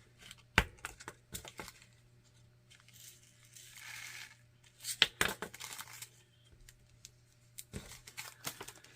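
Small plastic drill bags and containers handled while down-kitting diamond painting drills: crinkling plastic, a short rustle about four seconds in, and several sharp plastic clicks.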